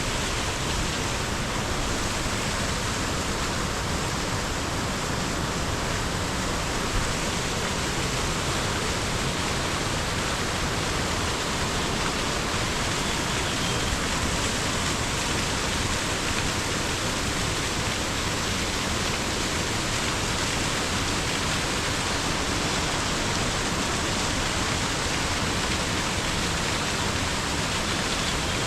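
Mountain stream flowing over rocks, a steady, unbroken rush of water.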